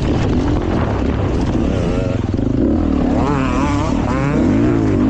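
Beta 450 RX four-stroke dirt bike engine running hard on a trail, revs rising and falling with the throttle and climbing sharply twice about three and four seconds in.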